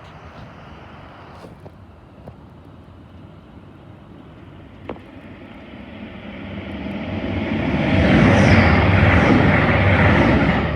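Grand Central Class 180 Adelante diesel multiple unit passing through the station non-stop at speed: a rushing rumble that swells over several seconds, is loud for the last few, and starts to fall away near the end.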